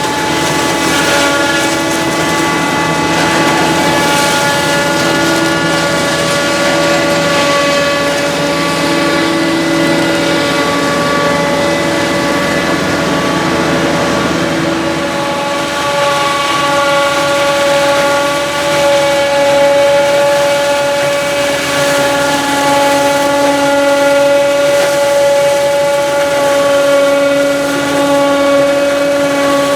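Heavy diesel machinery running at steady, high revs, giving a loud, even whine of several held tones that shift slightly in pitch partway through.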